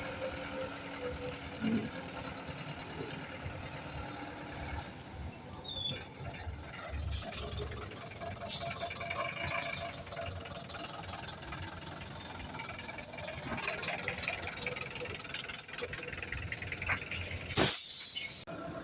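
City buses running at a bus terminal, with a short loud burst of air hiss near the end from a bus's air brakes.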